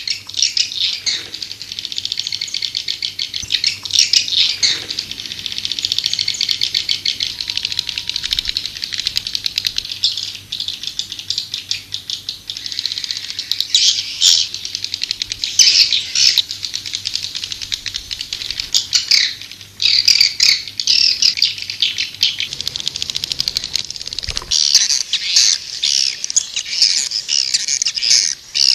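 Swiftlet calls: a continuous, rapid, rattling chitter and twitter, the recorded lure call (suara panggil) played to draw swiftlets into a nesting house. It dips briefly a little before the 20-second mark, and a faint low hum underneath stops about three-quarters of the way in.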